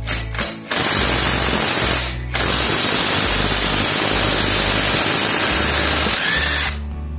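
A compressed-air tool hissing in two long blasts, the first brief and the second about four and a half seconds, over background music with a steady bass line.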